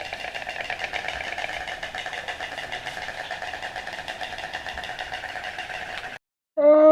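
Frogs calling in a continuous, rapidly pulsing trill that cuts off suddenly about six seconds in. Just before the end a loud, low-pitched animal call begins.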